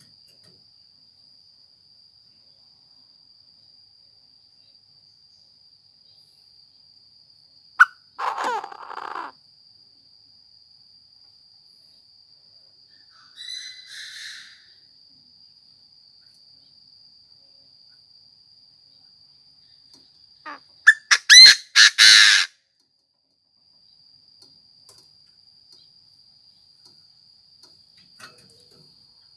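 Chinese francolin crowing in three bouts. There is a harsh call about eight seconds in, a fainter one near the middle, and a loud run of quick, rapid notes about three quarters of the way through. A faint steady high-pitched tone runs under it.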